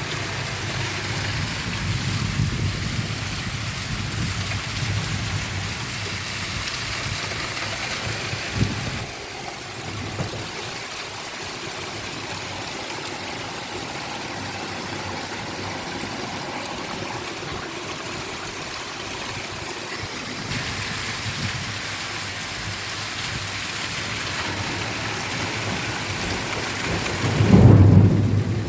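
Steady heavy rain hissing down, with low rumbling underneath in the first part. A single sharp knock comes about nine seconds in, and a loud low rumble swells up briefly near the end.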